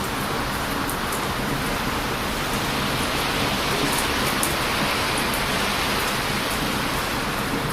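Heavy surf breaking on a beach, a steady loud rush of waves, with a wood bonfire crackling over it in short sharp pops, a few of them close together about four seconds in.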